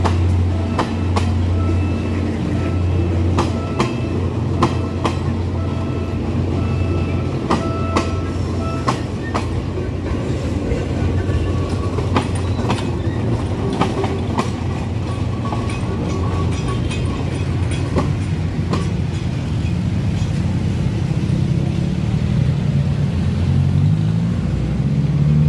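PNR diesel locomotive-hauled train of former JR coaches rolling past at close range: a low diesel drone that fades after about eight seconds, and wheels clacking over the rail joints as the coaches go by. A low engine note rises near the end.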